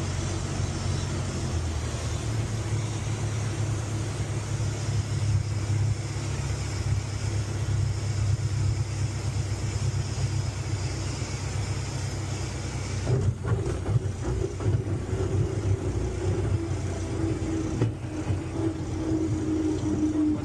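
Light taildragger's piston engine droning steadily in the cockpit during a crosswind approach. About two-thirds of the way through, the sound turns rougher and uneven, and near the end a tone slides slowly downward.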